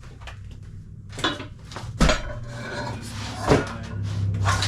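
Gym equipment being handled and set down: rustling and scraping with two sharp knocks, about two seconds in and a second and a half later, over a steady low hum.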